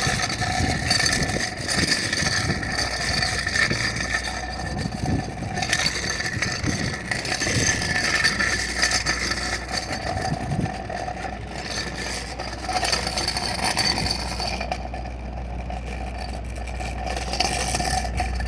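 Motor vehicle engine running with road noise and some rattling, steady throughout, with a low hum growing stronger near the end.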